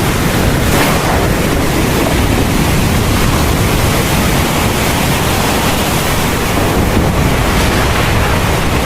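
Heavy rain falling in a steady downpour: a dense, even hiss with a deep rumble underneath.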